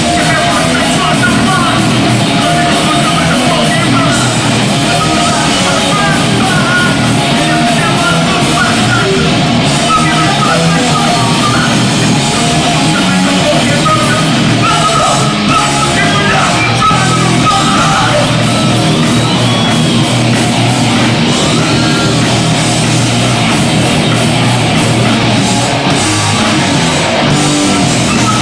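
Hardcore punk band playing live: distorted guitars and drums with shouted vocals, loud and unbroken.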